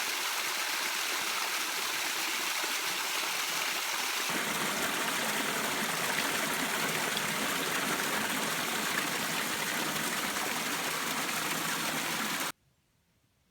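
Woodland waterfall on a brook, water falling and splashing in a steady, even rush; the sound grows fuller and deeper about four seconds in and cuts off abruptly near the end.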